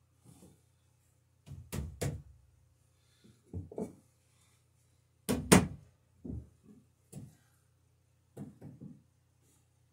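Irregular short strokes and knocks of a hand tool working a wooden boat rail, taking off saw marks. About six strokes come at uneven spacing, the loudest about halfway through, over a faint low hum.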